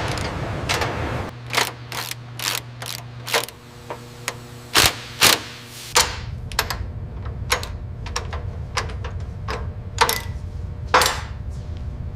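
Irregular sharp metallic clicks and clanks of hand tools and parts being worked, a few a second, over a steady machine hum. A low steady tone sounds from about a second in until about halfway through.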